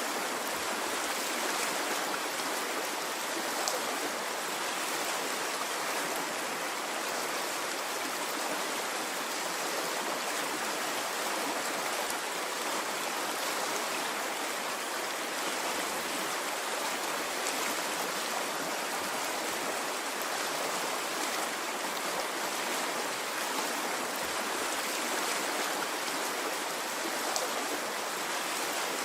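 Flowing stream: a steady, even rush of running water, with a few faint ticks of droplets over it.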